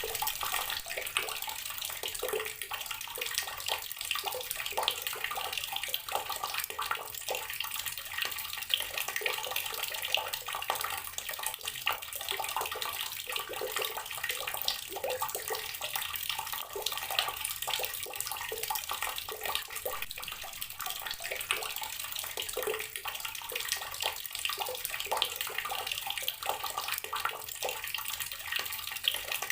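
Water running from a tap and splashing into a container of water, a steady splashing with many small irregular splashes.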